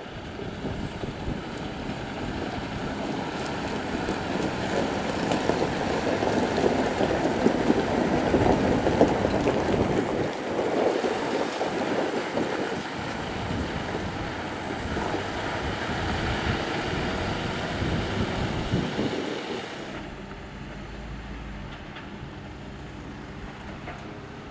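Hitachi Zaxis 490LCH excavator loading a dump truck: diesel engines running under load with a loud, rushing, rattling noise of dirt and rock pouring into the truck bed. After about twenty seconds it gives way to a quieter, steady engine hum.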